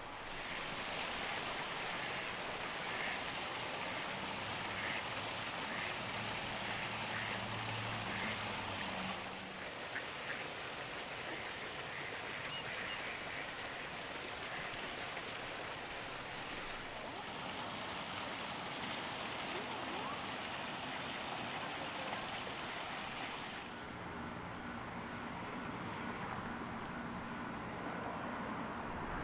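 Ducks quacking now and then over a steady rushing hiss, the kind of outdoor ambience heard by a park pond. The background changes abruptly a few times.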